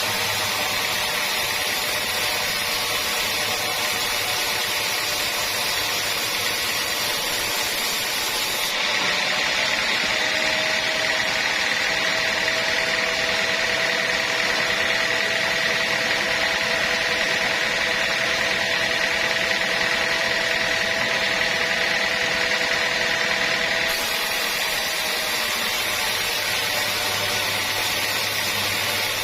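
Sawmill machinery running steadily with a high whine. The sound shifts abruptly about 9 seconds in and again near the end.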